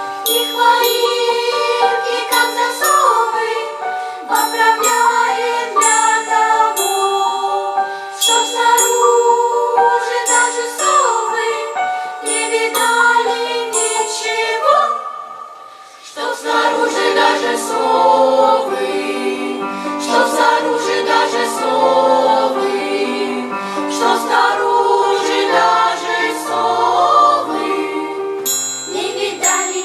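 Children's choir singing a song with instrumental accompaniment. About halfway through there is a brief drop in level, after which lower accompaniment notes join the voices.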